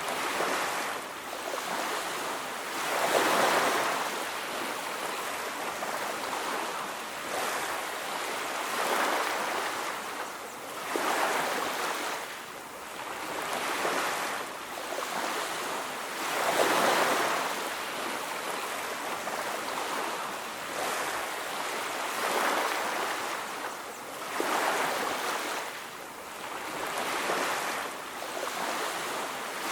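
Ocean waves breaking on a beach, the surf rising and falling in swells every few seconds.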